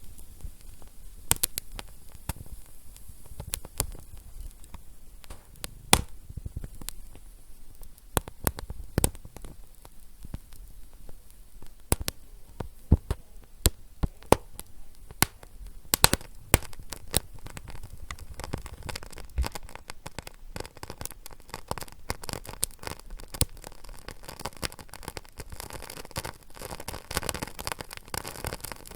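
Fire crackling: irregular sharp pops and snaps over a low rumble, with a hissing rush that builds in the last few seconds.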